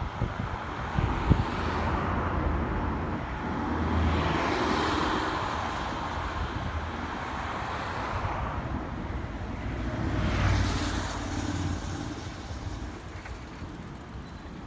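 Keikyu 1000 series electric train running along the tracks and drawing away: a steady rumble and rail noise that swells twice, with a short knock a little over a second in.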